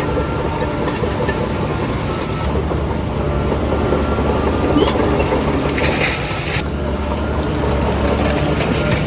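Crawler bulldozer working: its diesel engine running steadily under load, with the rough clatter of its steel tracks. A short hiss about six seconds in.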